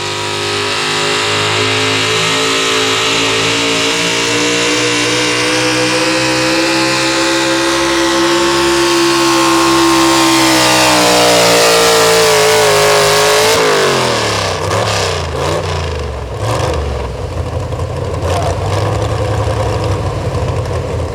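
Pulling truck's engine at high revs under full load, pitch holding and climbing slightly, then sagging as the truck bogs down. The throttle is cut about 13 seconds in, and the engine drops to a lower, rougher run with scattered knocks and rattles.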